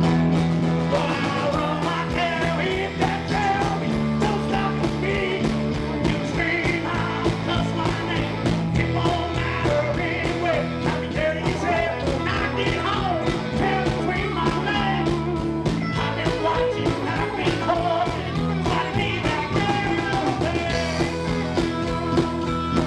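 A live country-rock band playing loudly, with electric guitars over bass and a steady drum beat.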